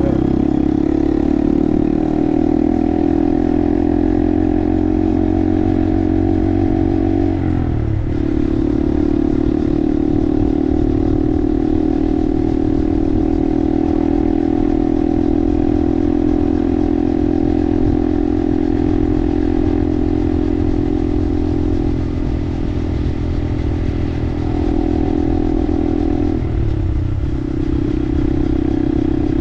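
Honda 125 cc minibike's single-cylinder engine running under way at a steady cruising pace, with brief breaks in the engine note about eight seconds in and again near the end.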